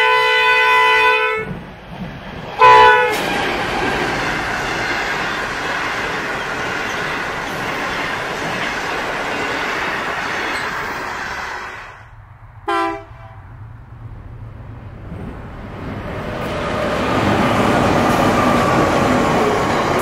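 NR-class diesel locomotive horn gives a long blast and then a short one, warning at a level crossing, followed by a steady rumble of passenger cars rolling past. About twelve seconds in, a second train's horn gives a short toot. A long freight train of boxcars then rolls past, its wheel and rail noise growing louder.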